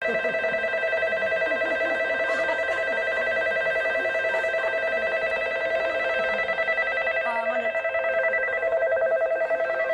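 Electric bell ringing continuously with a steady, rapidly trilling ring, like a railway departure bell. Faint voices sit underneath.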